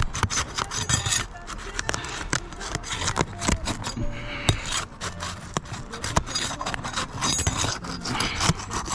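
Asphalt roof shingles being scraped and pried loose, a gritty rubbing and rasping broken by many sharp clicks and snaps.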